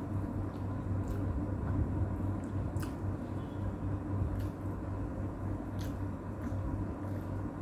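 A person chewing and eating, with soft mouth sounds and a few short sharp clicks, over a steady low hum.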